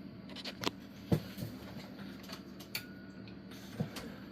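Irregular clicks and knocks of a wattmeter's plug-in element slugs being handled and swapped in the meter, over a steady low hum.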